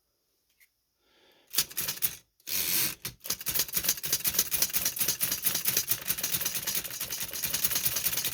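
Chicago typewriter being typed on rapidly with its type sleeve removed, the escapement clicking with every stroke: a few separate strokes about a second and a half in, then a fast, unbroken run of clicks. The escapement now advances every time.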